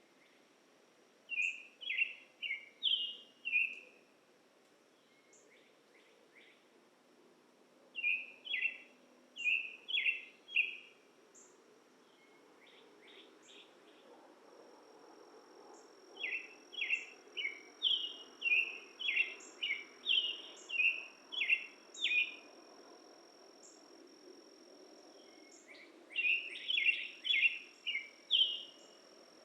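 A songbird singing at dusk in four bursts of rapid, repeated chirping phrases, with pauses between them. A thin, steady high tone joins about halfway through, over a low background hum.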